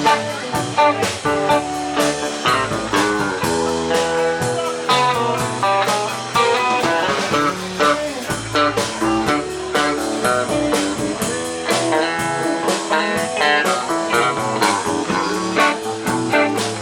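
Live rock band playing an instrumental passage: electric guitars and bass guitar picking out notes over a steady beat, with no singing.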